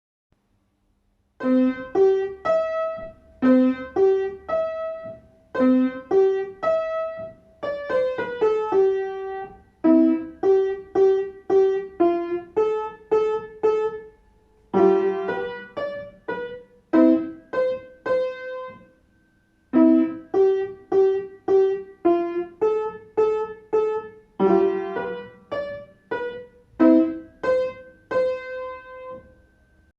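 Piano played by a young beginner: a simple Ukrainian folk-song arrangement in short phrases of separate struck notes, starting about a second and a half in, with two brief pauses along the way.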